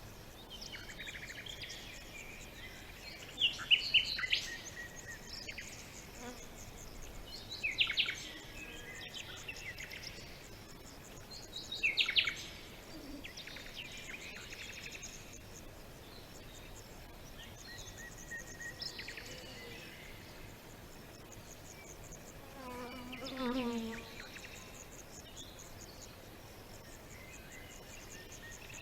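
Wild birds singing over a steady chorus of insects. Three loud, quick sweeping song phrases come about four seconds apart, softer calls follow, and a lower, wavering call sounds near the end.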